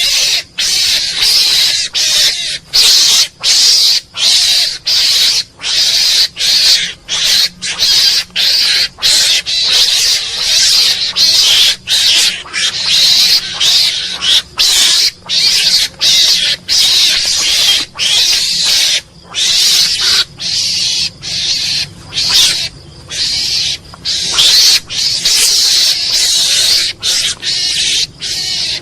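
Mongoose calling in a long, rapid run of harsh, noisy calls, a little over one a second, each separated by a brief break.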